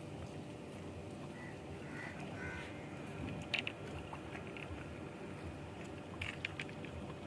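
Steady outdoor background with a few short, faint bird calls in the first half, a sharp click about halfway through and a few more clicks near the end.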